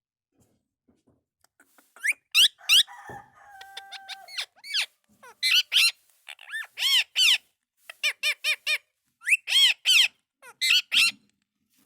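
Indian ringneck parakeet giving a run of short, sharp calls, each rising and falling in pitch, starting about two seconds in, some in quick runs of three or four.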